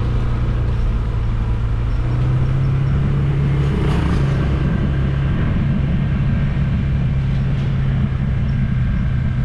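A motor vehicle's engine running steadily while driving along, a low steady hum that grows stronger about two seconds in.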